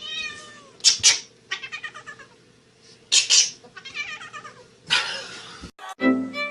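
A domestic cat meowing over and over, with louder calls about a second in, about three seconds in and near five seconds, and quick runs of short calls between them.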